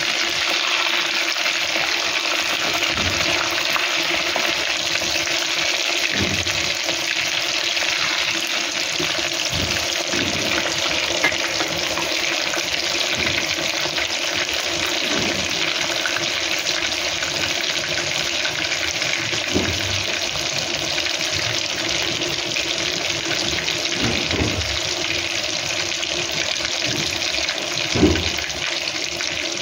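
Chinese cabbage rolls stuffed with ground chicken sizzling as they shallow-fry in hot oil: a steady frying hiss with a few brief pops, the sharpest near the end.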